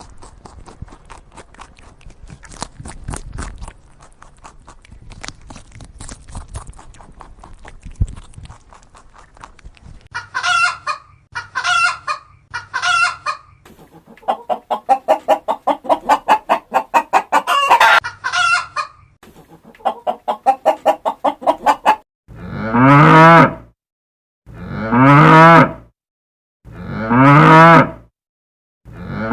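Farm animal calls: chickens clucking in rapid runs, then near the end four loud, long moos from cattle, about two seconds apart.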